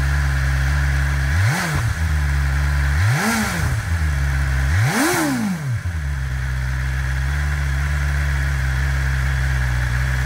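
Exhaust of a 2022 BMW S1000RR's 999cc inline-four idling, blipped three times about every second and a half, each rev climbing higher than the last before falling back. The engine then settles back to a steady idle.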